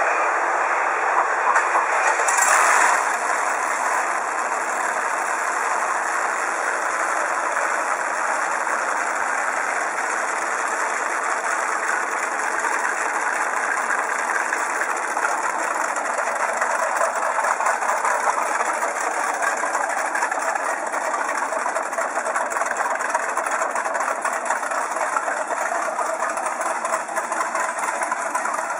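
Classic Chevrolet pickup truck's engine running through its exhaust, a steady idle with a brief louder surge about two seconds in.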